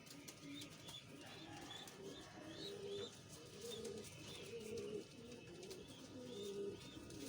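Domestic pigeons cooing, short low coos repeating and overlapping, with faint high chirps above them.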